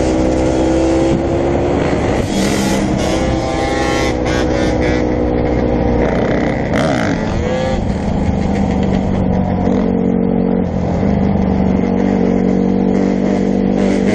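Several dirt bike engines running together, with engines revving up and down at different pitches.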